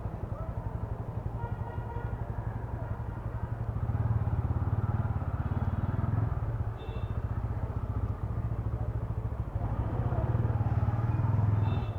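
TVS Ronin's single-cylinder engine running at low speed in stop-and-go traffic, picking up twice as the throttle is opened, heard through a helmet-mounted mic. Two brief high-pitched beeps sound near the middle and at the end.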